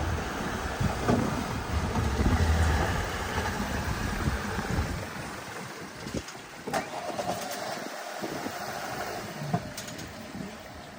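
Car engine rumbling, dying away about five seconds in, followed by a few sharp clicks and brief tones.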